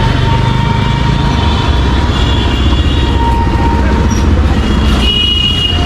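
Heavy street traffic with a steady, loud rumble of engines. Thin high tones come and go over it, and a strong high, piercing tone sounds briefly about five seconds in.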